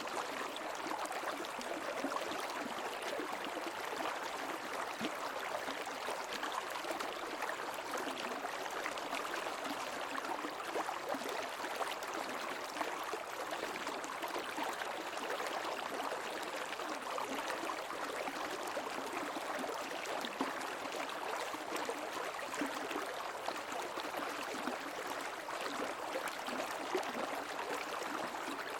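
Creek water flowing and babbling over stones, a steady rush with constant small splashes and gurgles.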